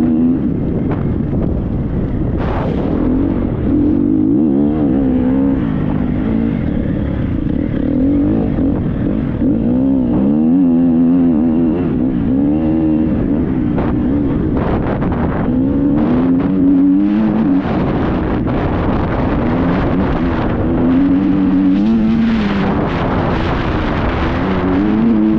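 Triumph TF 250-X single-cylinder four-stroke motocross engine under hard riding, its pitch repeatedly rising and falling as the throttle is opened and closed through the gears.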